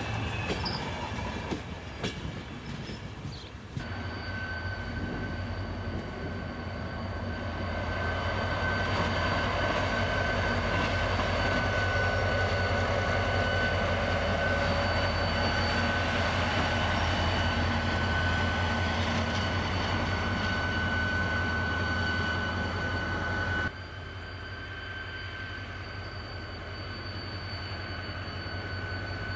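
A train running past, its rumble building over several seconds and holding, with a steady high whine over it. The sound steps down abruptly about three quarters of the way through.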